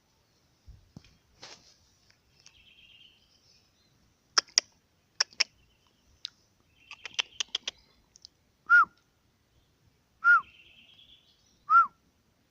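Small birds twittering in woodland, with a run of sharp clicks in the middle. Near the end come three short, loud whistled notes, each rising and falling, about a second and a half apart.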